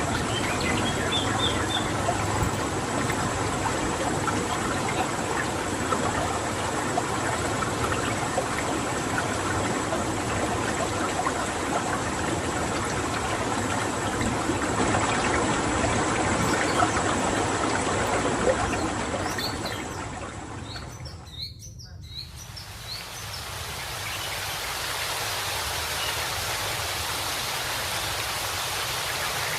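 Steady rush of running water with a few short, scattered calls of a white-rumped shama (murai batu). About 21 seconds in the sound dips briefly and carries on as a softer, hissier water sound.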